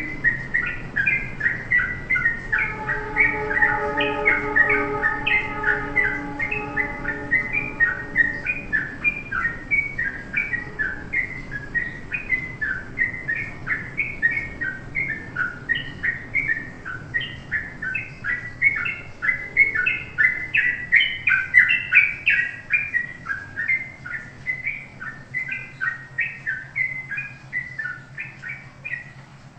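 A songbird chirping nonstop in a rapid series of short, sharp notes, about three a second. A steady low tone with overtones runs beneath the chirps for the first several seconds.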